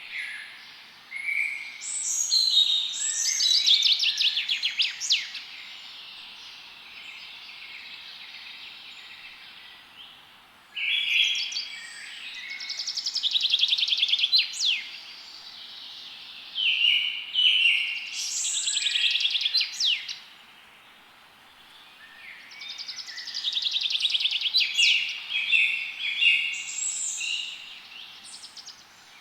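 Songbirds singing in four bursts of fast trills and chirps, with quieter gaps between, over a steady background hiss.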